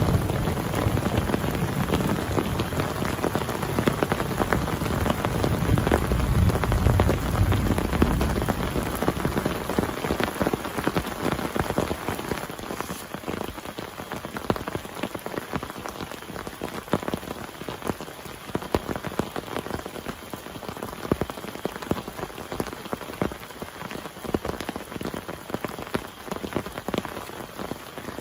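Heavy rain pouring steadily, thick with individual drop strikes. A low thunder rumble dies away over the first several seconds.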